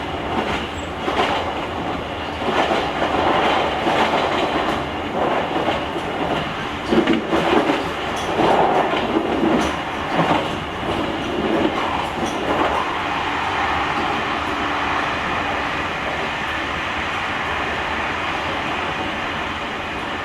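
JR Kyushu 883 series express train motor car running at high speed, heard from the car's vestibule: continuous wheel and rail rumble with clattering. It surges unevenly for the first dozen or so seconds, then settles into a steadier run.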